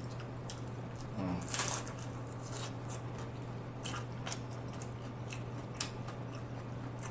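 Close-miked chewing of a crunchy hard-shell taco, with scattered small crunches and clicks. A short vocal sound comes about a second and a half in.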